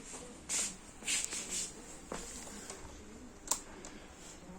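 Faint handling sounds: a few short rustles and two sharp clicks, over quiet room tone.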